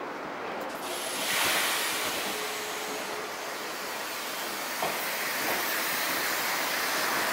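Odakyu 1000 series electric train running along the station platform toward and past the camera: a steady rushing noise of wheels and running gear that swells about a second in and grows louder toward the end, with a single knock about five seconds in.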